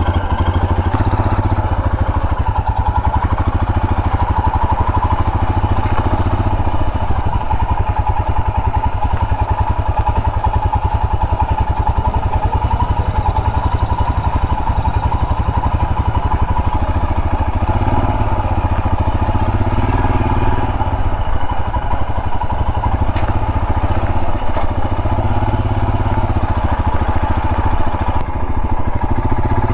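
Royal Enfield Himalayan's 411 cc single-cylinder engine running steadily as the motorcycle is ridden, a continuous even thump with no breaks.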